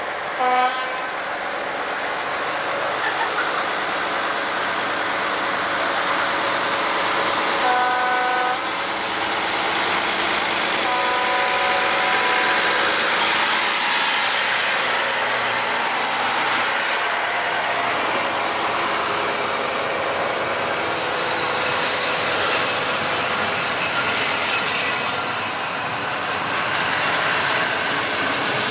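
SU42 diesel locomotive sounding its horn three times as it runs into the platform: a short toot about half a second in, then two longer blasts around eight and eleven seconds. Its engine and a rake of passenger coaches roll past close by, with steady wheel noise.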